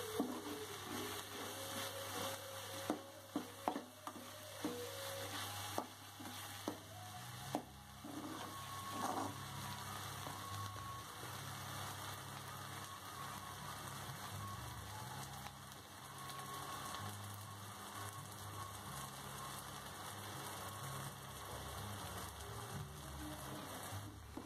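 Onions, shallots, green chillies and tomato sizzling softly as they fry in a metal kadai. A steel ladle clinks and scrapes against the pan several times in the first eight seconds as they are stirred, then the sizzle goes on steadily.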